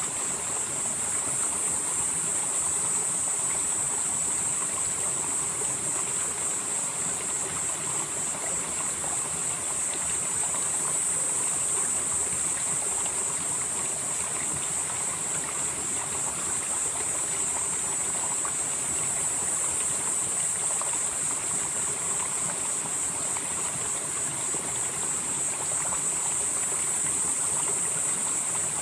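Valley stream flowing, a steady rush of water. Over it runs a loud, shrill high-pitched sound that swells and fades about every eight seconds.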